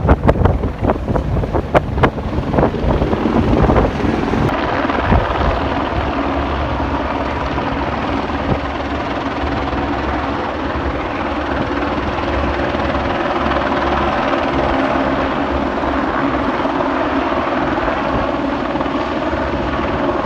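Tour helicopter running close by, its engine and rotor giving a steady heavy noise with an even hum. In the first four seconds a run of irregular thumps sounds over it, then the sound settles to a steady drone.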